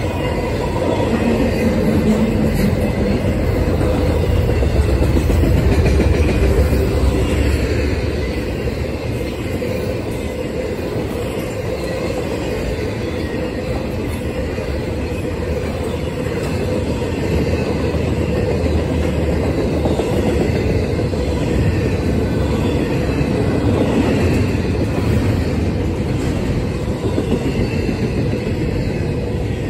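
Intermodal freight train's container and trailer cars rolling past: a steady, loud rumble with the clickety-clack of wheels over the rail joints.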